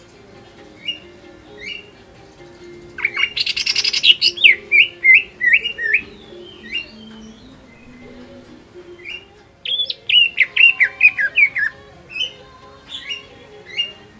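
Greater green leafbird (cucak ijo) singing an energetic, varied song: scattered sharp chirps, with two fast runs of down-slurred notes, about three and ten seconds in, the first opening with a harsh rattle.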